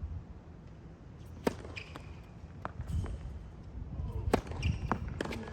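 Tennis ball being hit and bouncing on a hard court: a handful of sharp, separate pops spread over a few seconds, two of them louder than the rest, over a low outdoor rumble.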